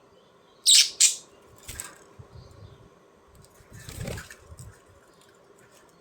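Pet budgerigars: two sharp, loud bursts of bird sound a little under a second in, followed by softer flutters and rustling, with a fuller burst of wing flapping about four seconds in.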